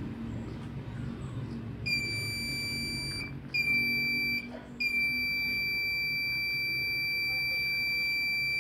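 A steady high-pitched electronic beep sounding three times: two short ones of about a second each, then a long one of nearly four seconds that cuts off at the end, over a low hum.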